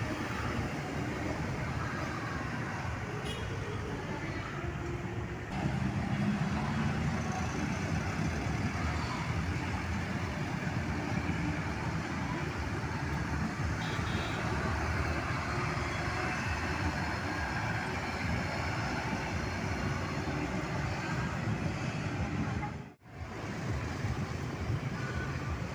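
Road traffic dominated by heavy trucks and buses driving past, with engine rumble and tyre noise; it grows louder about five seconds in and cuts out for an instant near the end.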